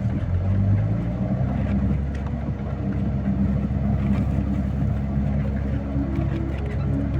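Engine of a heavy snow-clearing vehicle running steadily under load as it works through drifted snow on the road, its low drone shifting slightly in pitch.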